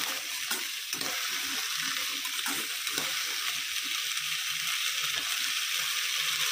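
Green peas frying in oil in a pan, a steady sizzle, with a few short knocks or scrapes of a spoon stirring in the first three seconds.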